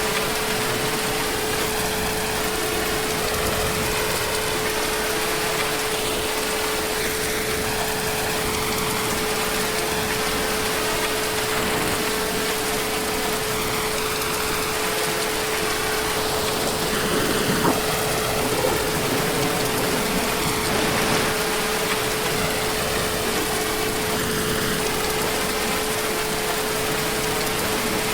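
Heavy rain falling steadily, an even hiss of drops with no break, and a constant hum underneath it. The rain swells briefly a little louder a bit past the middle.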